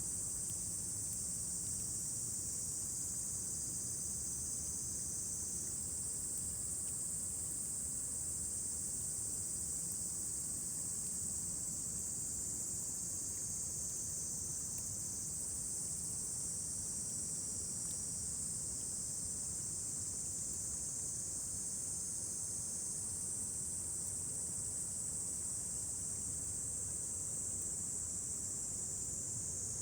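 A dense chorus of insects chirring steadily in a high band, over a low steady rumble.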